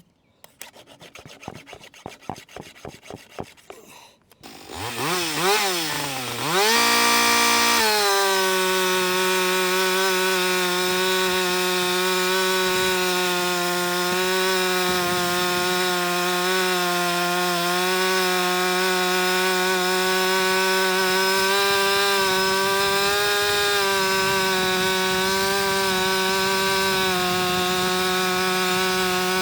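A round file scraping a chainsaw chain's cutters in a quick run of strokes, then a two-stroke chainsaw revving up and down a few times and running steadily at full throttle, cutting through wood, as a test cut of the freshly hand-filed chain.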